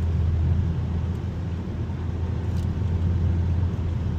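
Cabin noise of a 2021 Mazda 3 Turbo AWD driving on snowy roads: a steady low drone of engine and tyres.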